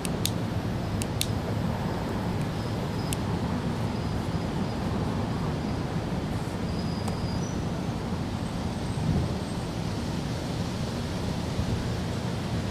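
Steady low outdoor rumble of background noise, with a few sharp clicks in the first three seconds and faint high chirps partway through.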